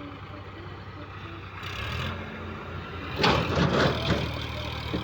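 Diesel tractor engine running steadily. It grows louder a couple of seconds in, with a loud, rough burst of noise just past the middle.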